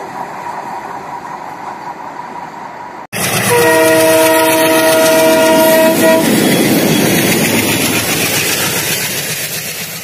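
Freight train wagons rolling along the track with a steady rumble; then an abrupt cut to louder train running noise, with a multi-note diesel locomotive horn held for about two and a half seconds. The running noise then slowly fades.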